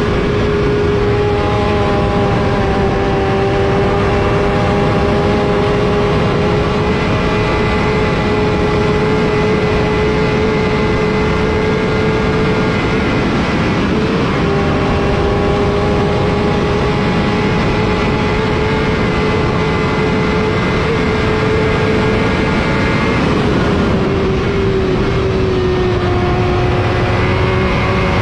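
Racing motorcycle engine heard onboard, held at high revs at a nearly steady pitch over a rush of wind noise. The note breaks briefly about halfway through, then falls gradually over the last few seconds as the bike slows into a bend.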